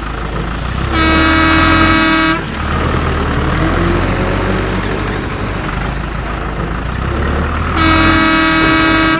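A vehicle horn honks twice, each a held note of about a second and a half, with a few seconds between them, over a steady low engine rumble.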